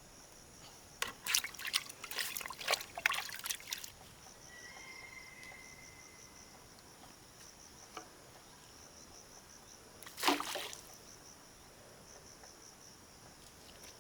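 Water splashing and trickling in a run of bursts for a few seconds, then once more near the end, over insects chirping steadily in quick pulses.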